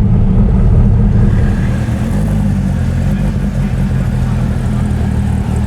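Twin-turbo Dodge Viper's V10 engine running with a deep, steady rumble that drops a little in level about a second and a half in.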